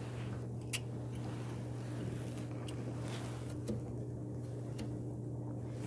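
A few light clicks and taps from handling the dryer's blower wheel and housing parts, over a steady low hum.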